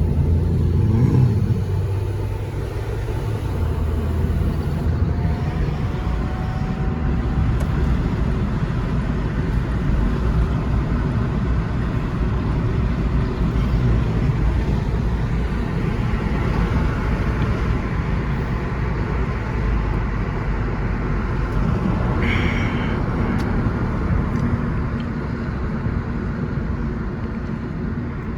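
Car driving on the road: steady engine rumble and tyre noise, with a brief rise and fall in engine pitch about a second in.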